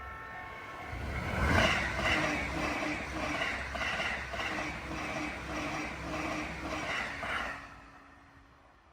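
Electric train on the Seibu line passing, its wheels clacking over the rail joints in an even rhythm about twice a second over a steady hum; the sound fades out near the end.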